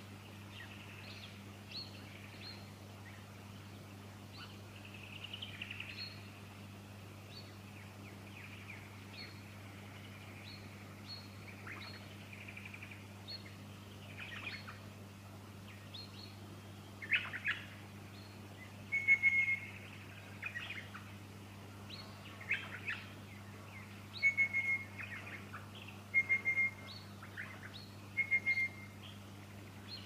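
Small birds chirping and calling in scrub: short high chirps throughout, louder calls in the second half including four brief clear whistled notes, over a steady low hum.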